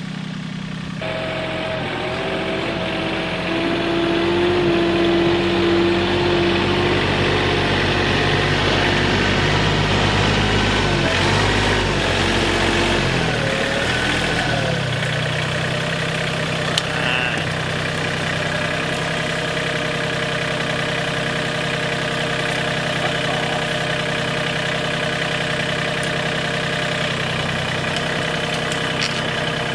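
Mahindra 1626 compact tractor's diesel engine running steadily under backhoe work. Its pitch shifts and falls about halfway through, then it settles into an even run.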